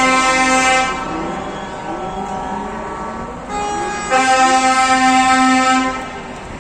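Truck air horns blowing in long sustained blasts. One blast cuts off about a second in, a softer horn tone sounds after about three and a half seconds, and a loud blast follows from about four to six seconds in.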